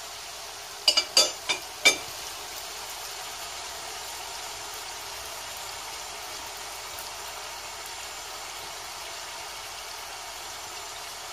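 Pişi dough frying in hot oil in a frying pan: a steady sizzle. About a second in, four or five sharp metallic clicks, from the metal tongs used to turn the dough.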